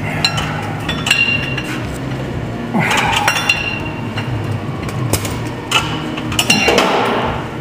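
Metal tools and parts clinking and ringing in a series of sharp strikes, over a steady low hum. Two short hissing rushes come about three seconds in and again near the end.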